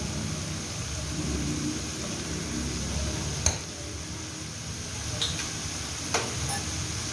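Shredded cabbage, carrots and chicken sizzling in a wok over raised heat as a spoonful of soy sauce goes in, a steady hiss. A sharp metal click about three and a half seconds in, and two lighter clicks near the end.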